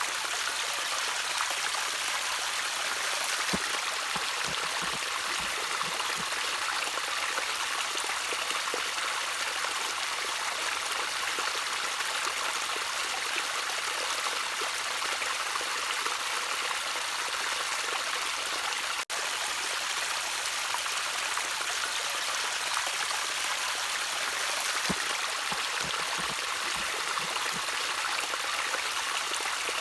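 Gentle trickling stream water, a steady even rush with a few faint low plinks of drops, broken by a split-second dropout about two-thirds of the way through.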